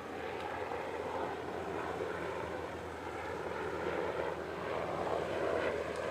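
A steady engine drone with a low hum, growing a little louder toward the end.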